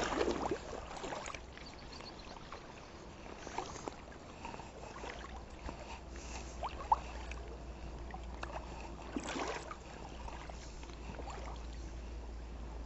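Water sloshing around a fishing kayak as it is moved along, with scattered small knocks and clicks of handling on the hull and gear, and a louder splash-like rush about nine seconds in.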